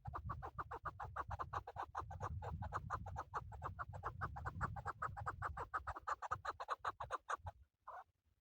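Male chukar partridge calling: a long, fast run of clucking notes, about six a second, that stops abruptly near the end and is followed by one more note. A low rumble runs beneath.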